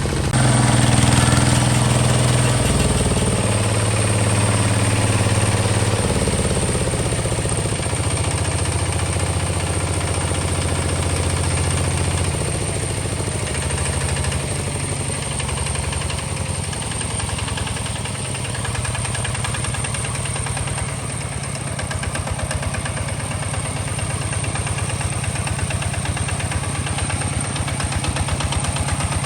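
Hinota HG Gold 155 DI tractor's diesel engine running, its pitch shifting up and down in steps several times during the first dozen seconds, then holding steady with a rapid chugging beat.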